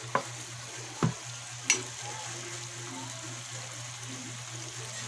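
Sliced hotdogs, mushrooms and onion sizzling in a frying pan while a wooden spatula stirs them, knocking against the pan three times in the first two seconds, then an even sizzle.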